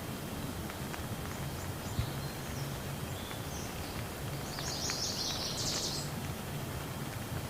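Steady rain falling, with scattered individual drops ticking and no thunder. A bird twitters high above it, clearest around the middle.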